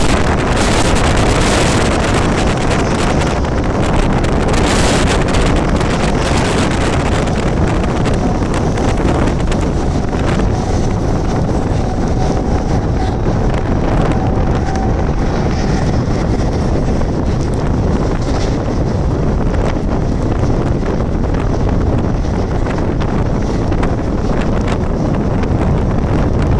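Wind buffeting the microphone held outside a moving Mumbai suburban electric (EMU) local train, over the steady running noise of the train on the rails. A faint steady whine rises above the noise for several seconds in the middle.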